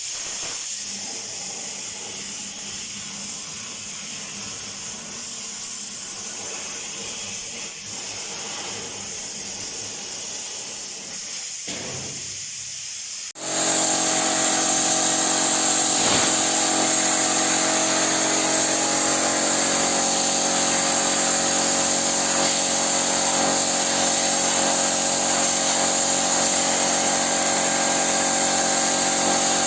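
CNC plasma cutter running: a steady hiss, then about halfway through it jumps to a louder, steady hiss with a whine of several steady tones.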